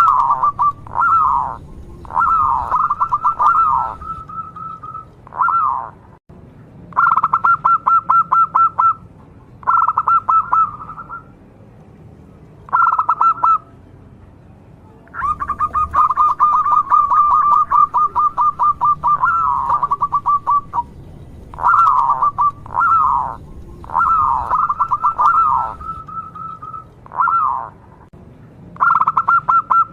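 Zebra dove (perkutut) cooing over and over: fast trilled coos held near one pitch, mixed with short falling notes, in phrases of one to a few seconds with brief pauses, one long phrase near the middle.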